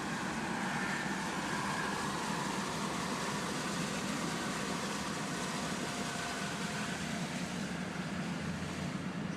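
A vehicle driving through floodwater: a steady mix of engine and water noise with no sharp events.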